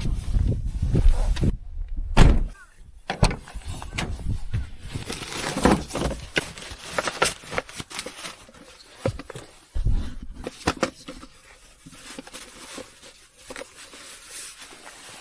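A low rumble for about the first two seconds, then a string of irregular knocks, thuds and clicks, with the loudest thuds at about two seconds and ten seconds in.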